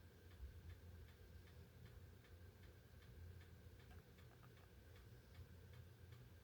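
Faint, evenly spaced ticking, about three ticks a second, over a low steady hum.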